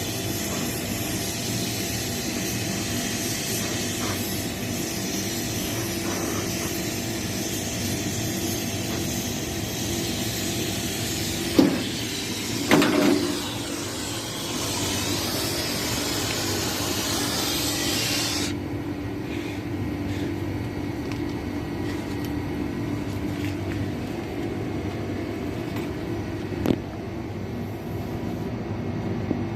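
Gas hissing hard through air-conditioner refrigerant lines over a steady low machine hum, with two knocks about twelve seconds in. The hiss cuts off suddenly about eighteen seconds in, leaving the hum.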